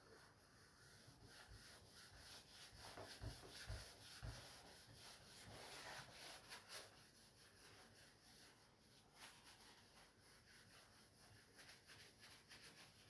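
Faint rubbing and wiping of toilet paper over a fresh silicone sealant bead, cleaning off the excess, with a few soft knocks about three to four seconds in.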